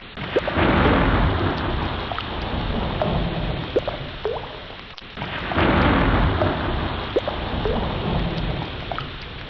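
Ocean waves rushing in, surging twice about five seconds apart and fading between surges, with short rising squeaky calls scattered over the surf.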